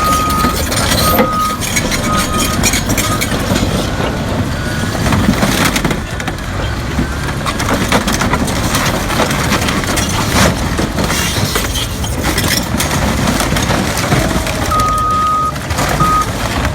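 Heavy machinery working, with clanks and crunching knocks over a steady rumble. A reversing alarm beeps in the first few seconds and again near the end.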